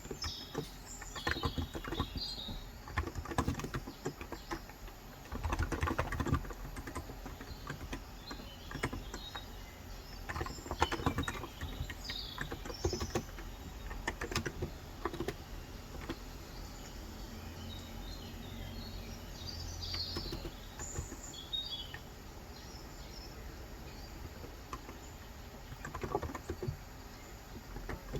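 Typing on a Cox Endeavor contactless (electrostatic capacitive) tenkeyless keyboard with 35 g switches, the keystrokes coming in irregular bursts with short pauses. Birds chirp in the background.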